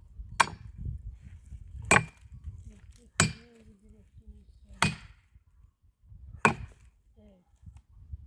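Axe chopping firewood: five sharp strikes about a second and a half apart.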